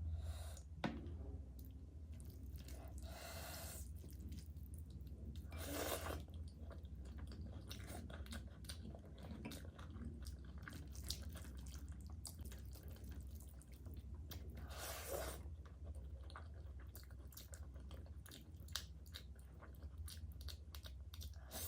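Close-miked chewing of chicken liver curry: many small wet mouth clicks and smacks, with three longer, louder wet sounds about 3, 6 and 15 seconds in. A steady low hum sits underneath.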